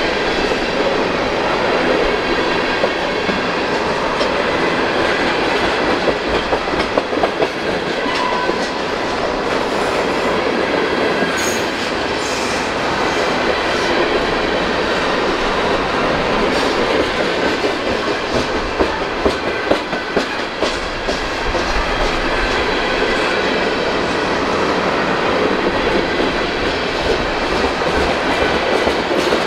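A train rolling past at close range, its steel wheels clicking steadily over the rail joints.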